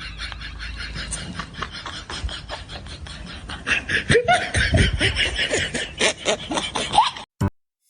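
People laughing and snickering in quick breathy pulses, louder in bursts around the middle, cutting off suddenly near the end.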